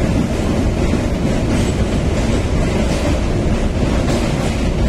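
Train running across a steel truss bridge, heard from inside the carriage at an open window: a steady, loud rumble of wheels on rail with faint clicks near the end.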